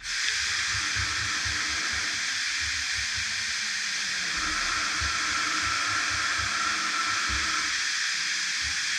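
A steady, loud hiss that begins abruptly just before, with irregular low thumps underneath.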